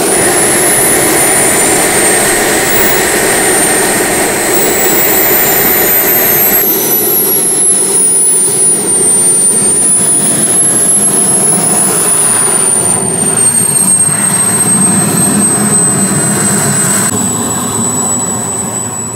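Twin KingTech K-235 G4 turbine engines of a 1/6-scale Su-30SM model jet running: a jet roar under a high turbine whine whose pitch sweeps down and up and then settles steady. The sound fades near the end.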